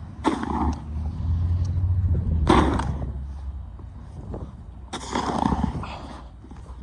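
Snow shovel scraping through snow, three strokes about two and a half seconds apart, over a low steady rumble.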